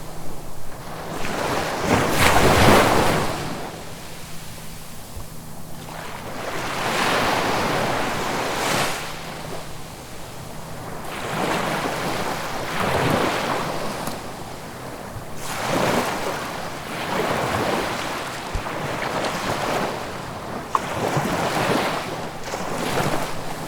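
Ocean waves breaking and washing on the shore in repeated swells a few seconds apart, the biggest one about two seconds in, with some wind on the microphone.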